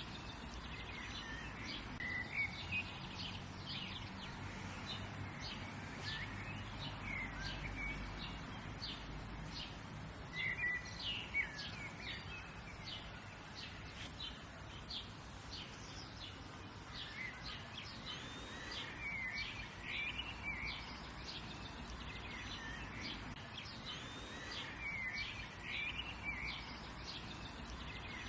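Several small birds chirping and calling, in many short notes and brief trills, over a steady background hiss.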